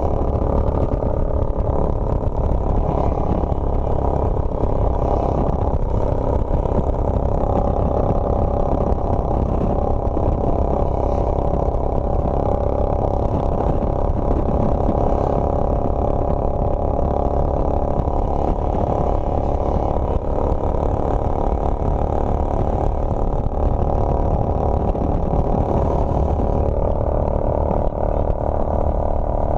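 Motorcycle running at a steady speed while being ridden, its engine and the rush of riding making a continuous low drone.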